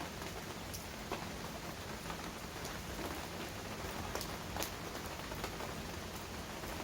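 Heavy rain falling steadily, with scattered sharper drops clicking close by every second or so.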